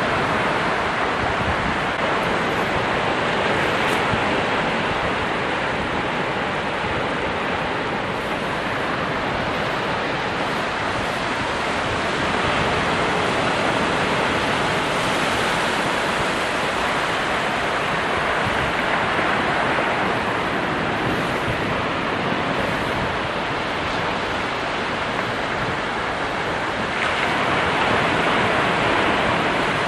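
Ocean surf: a continuous wash of breaking waves, swelling gently and easing off again.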